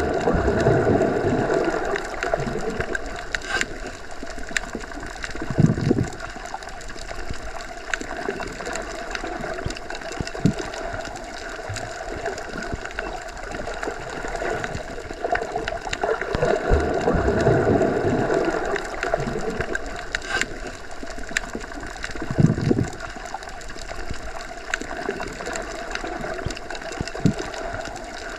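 Underwater ambience: a steady, muffled rushing hum that swells louder for a couple of seconds twice, with short low surges and scattered faint clicks.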